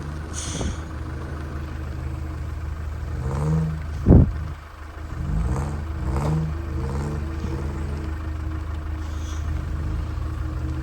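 Land Rover Defender 130's engine running, revved in several short rising bursts as the stuck truck tries to pull free, with a heavy thump about four seconds in.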